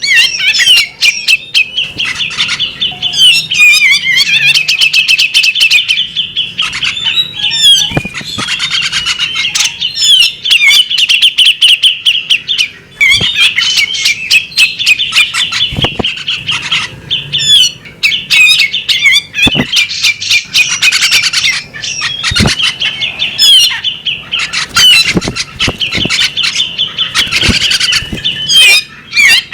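Female bearded magpie-robin singing loudly and almost without pause: fast warbling phrases laced with sharp, high whistled notes, broken by brief gaps every few seconds. A few sharp clicks sound now and then.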